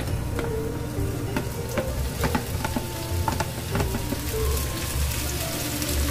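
Julienned bellflower root (doraji) sizzling as it is stir-fried in a hot nonstick wok, with a wooden spatula clicking and scraping against the container and pan. The sizzle grows louder over the second half.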